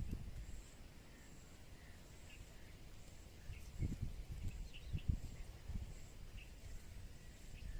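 Outdoor rural ambience: scattered short bird chirps and a faint, repeating high-pitched tone over low rumble, with a couple of dull thumps about four and five seconds in. No engine is running.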